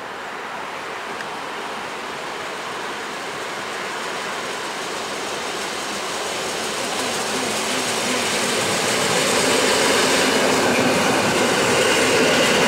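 An EN57 electric multiple unit running toward and past the listener as it pulls into the station. The rail noise grows steadily louder, and from about halfway a few steady tones ring over it as the train comes alongside.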